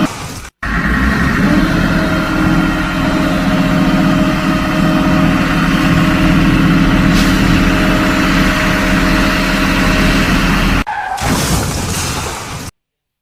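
Heavy vehicle engine running steadily, with a brief break just after the start and a change in its sound about eleven seconds in before it cuts off suddenly.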